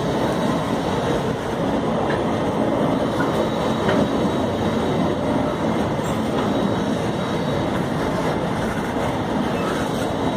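A long train of empty iron-ore freight wagons rolling past, its wheels on the rails making a steady, dense rumble that holds level throughout.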